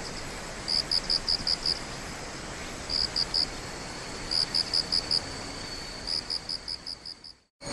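Cricket chirping in short bursts of five or six quick high pulses, a burst about every second and a half, over a steady hiss of night ambience with a faint continuous trill underneath. The sound fades out near the end.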